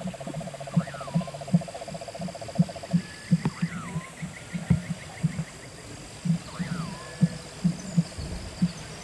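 Chorus of frogs and insects calling: a rapid low pulsing about two to three times a second, a fast buzzing trill that stops about three seconds in and returns later, a short rising-and-falling chirp repeated about every three seconds, and a steady high whine.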